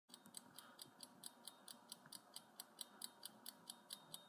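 Faint clock-style ticking sound effect marking a countdown timer, about five quick, even ticks a second.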